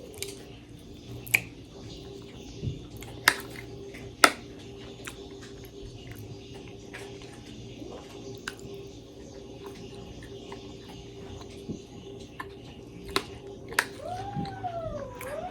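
Sharp clicks and smacks of eating, a handful spread a second or more apart, over a steady hum. Near the end a cat meows, a long call that rises and falls twice.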